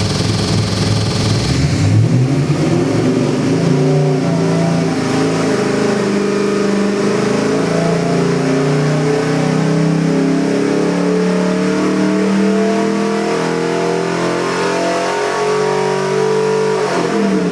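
383-cubic-inch small-block Chevy V8 stroker engine making a dyno pull: after a second or so at idle its pitch climbs steadily under load for about fourteen seconds, then drops back to idle near the end.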